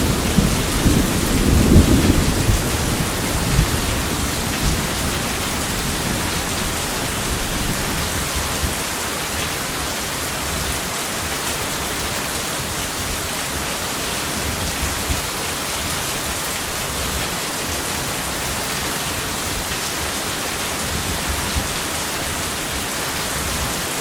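Steady heavy rain, with a low rumble of thunder fading away over the first few seconds.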